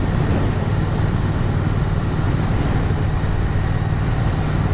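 Motorcycle engine running at a steady cruising speed, a constant low drone under an even rush of road and wind noise.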